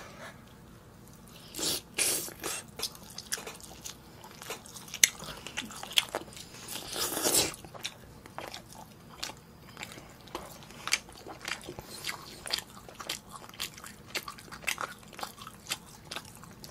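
Two people chewing mouthfuls of braised chicken and glass noodles (Andong jjimdak), close to the microphone, with many small sharp clicks. Two longer noisy bursts come about two seconds in and about seven seconds in.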